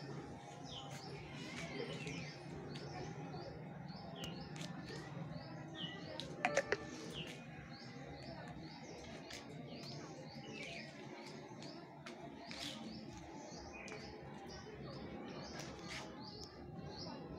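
Small birds chirping over and over in quick, high, downward-sweeping notes. A short, loud pitched squeak in three quick pulses stands out about six and a half seconds in.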